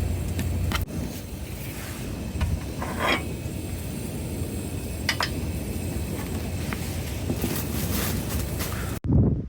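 Strong wind blowing, rumbling and buffeting against the microphone, with a few scattered ticks. It cuts off abruptly near the end, followed by a brief low thump.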